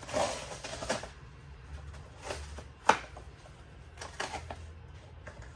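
Plastic quart bottles of motor oil being handled: a scratchy rustle at the start, then a few separate clicks and knocks, the sharpest about three seconds in.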